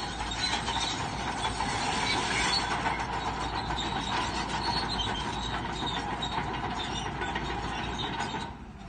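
Crawler bulldozer working: its diesel engine running under load while the steel tracks clank and squeal. The sound drops away briefly near the end.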